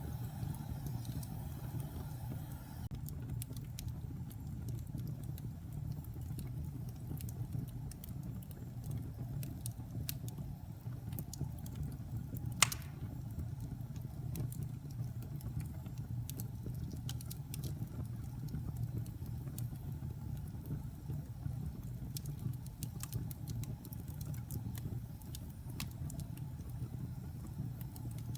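Wood fire burning in a fireplace: a steady low rumble of flames with scattered small crackles, and one loud pop about halfway through.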